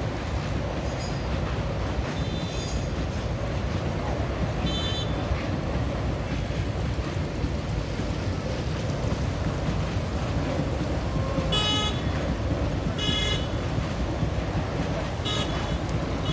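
Express train's passenger coaches rolling over a girder bridge: a steady rumble, with about six short horn toots sounding over it at intervals.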